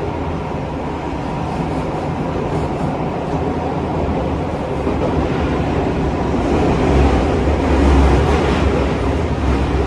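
Running noise of a Tokyo Metro 15000 series subway train, heard from inside the car in the tunnel: a steady rumble of wheels on rail that grows louder about seven seconds in.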